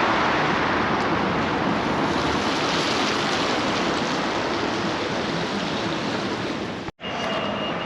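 A steady, even rushing noise, broken by an abrupt cut near the end. Just after the cut, a thin steady high-pitched tone comes in.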